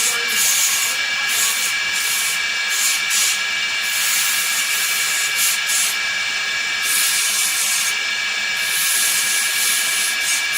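Steady loud hiss over a constant high machine whine, the top of the hiss cutting out briefly every second or so.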